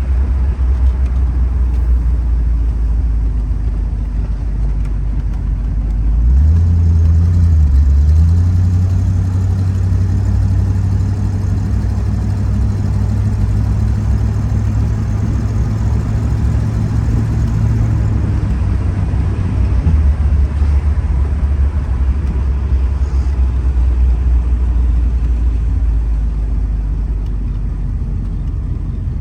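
Ford Mustang engine running, its pitch rising about six seconds in, holding higher for about ten seconds, then dropping back.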